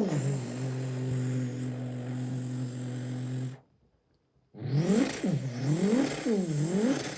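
A man imitating a Lexus SC300 engine with his mouth. He holds a steady low drone for about three and a half seconds, stops briefly, then makes a string of quick revs that rise and fall in pitch.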